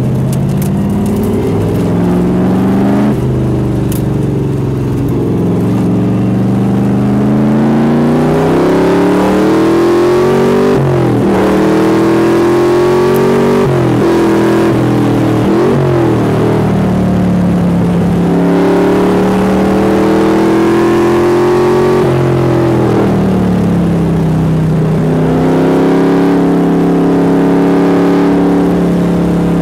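Cheetah's V8 engine under hard acceleration on track: the revs climb through the gears and fall at each change, with several quick drops and blips in the middle and steadier stretches at high revs near the end.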